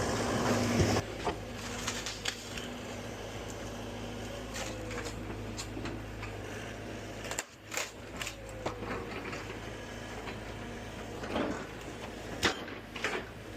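Heavy demolition equipment running steadily, with a few sharp knocks and clanks and two brief falling whines.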